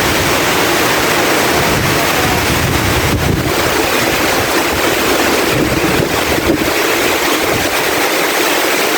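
Heavy typhoon rain pouring down with strong wind gusting, a steady loud rush of water, with wind buffeting the microphone.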